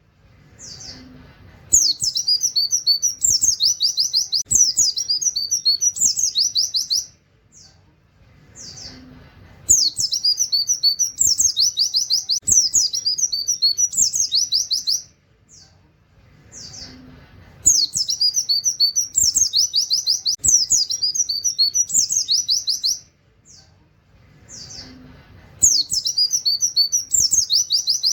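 Oriental white-eye (pleci) singing its 'tembakan' song: rapid, high 'wit wit' shots and chattering phrases in bursts of about five seconds, with short pauses holding a few single chirps. The same phrase comes back almost identically about every eight seconds.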